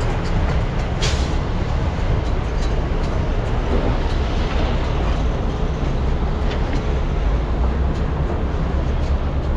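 Large hydraulic mining excavators' diesel engines running steadily under load, with a deep continuous rumble. A short sharp noise cuts through about a second in.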